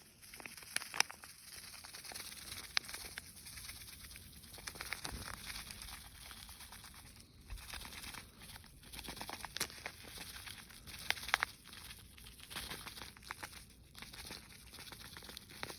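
Crinkling and rustling handling noise with scattered sharp clicks.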